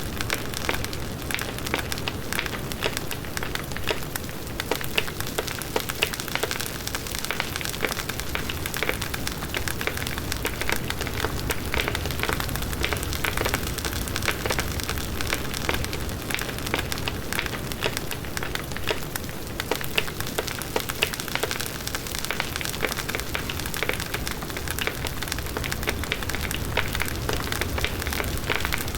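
Outdoor wood bonfire burning: dense, continuous crackling and popping of the burning wood over the low rush of the flames.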